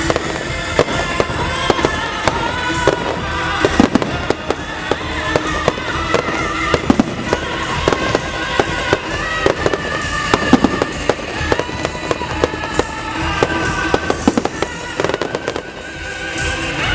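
Fireworks bursting in a rapid, irregular run of sharp bangs and crackles over music played along with the display.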